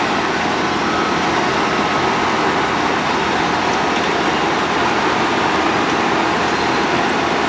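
Road planer (asphalt milling machine) running, a loud, steady, unbroken machine noise from its engine and cutting drum working the road surface.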